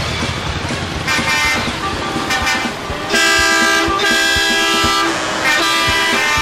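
Truck horns honking: a short blast about a second in, then a long blast of about two seconds, and another blast starting near the end.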